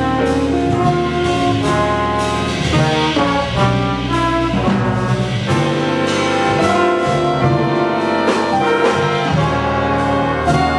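Big-band jazz orchestra playing: brass and saxophone sections sound chords together over cymbal and drum strokes.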